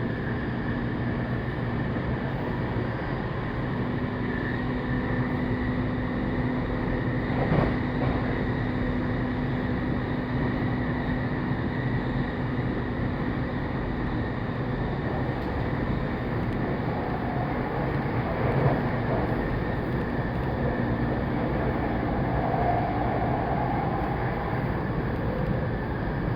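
Saikyo Line commuter train running at speed, heard from inside the car: a steady rumble of wheels on rail with a faint motor hum, and two sharp knocks, one about a third of the way in and one past halfway.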